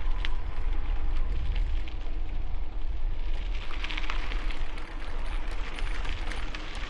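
Strong wind buffeting a helmet-mounted camera microphone while cycling: a steady deep rumble with scattered small crackles and ticks.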